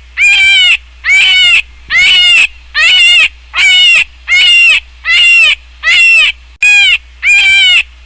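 An animal call repeated at an even pace, about ten loud, high calls of half a second each, every one rising and falling in pitch the same way.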